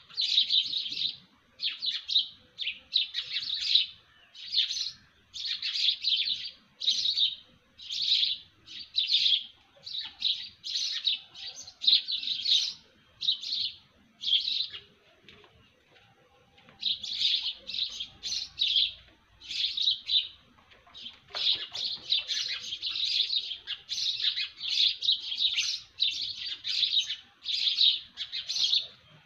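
Birds chirping in quick, high-pitched bursts, roughly one burst a second, with a pause of about two seconds just past the middle.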